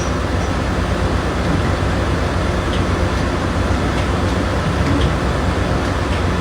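Engine-room machinery of a cargo ship running steadily: a loud, even drone with a low hum, and a few faint clicks over it.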